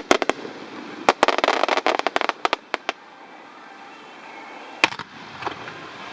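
Aerial fireworks bursting: a few sharp bangs, then a rapid run of cracks with crackling between them, a lull, and one more bang near the end.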